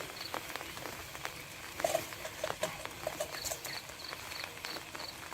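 A small animal calling in the forest: a short high chirp repeated in quick groups of two or three, and a run of short low notes about two seconds in, over a steady patter with scattered sharp clicks.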